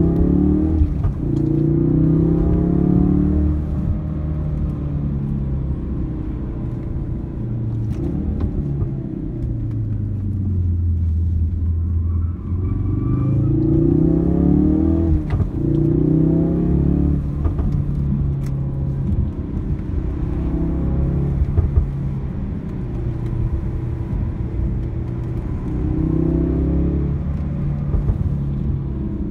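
Ford Focus RS's turbocharged engine heard from inside the cabin, pulling hard several times with its pitch rising as it accelerates out of the bends, then dropping away as it comes off the throttle. Constant road and tyre rumble runs underneath.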